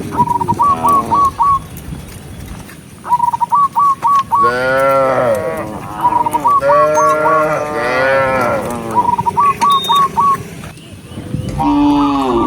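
Cattle mooing, several long drawn-out calls in the middle of the stretch. Between the moos, a bird gives repeated quick runs of four to six short high whistled notes.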